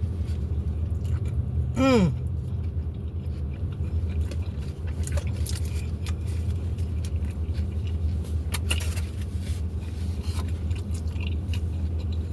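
Chewing and biting into a taco, with scattered short crunches and clicks, over a steady low rumble. About two seconds in, a brief pitched sound falls steeply in pitch.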